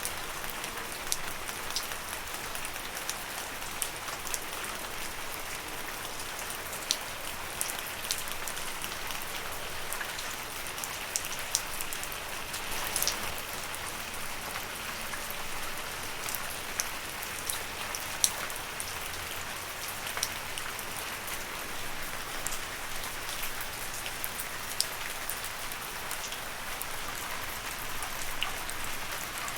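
Steady gentle rain falling on leaves: a continuous patter with many separate drops ticking sharply throughout.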